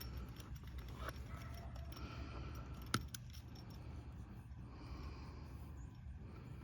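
Antenna wire and coax cable being handled and untangled: light rustling and small clinks, with one sharp click about three seconds in, over a low steady rumble.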